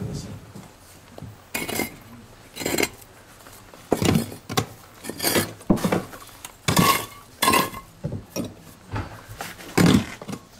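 Fired pottery pieces clinking and knocking against each other as they are handled and set down, about a dozen separate clinks and clatters.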